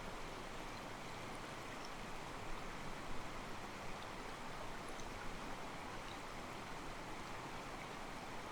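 Mountain stream flowing steadily over rocks: a soft, continuous rush and slosh of water.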